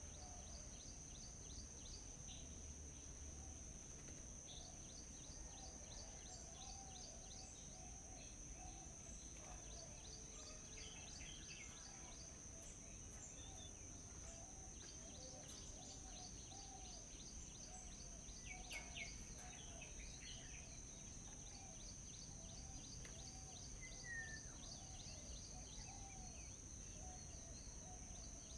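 Faint outdoor birdsong and insect ambience: a steady high-pitched insect drone throughout, with scattered quick bird chirps and a softer call repeating about twice a second.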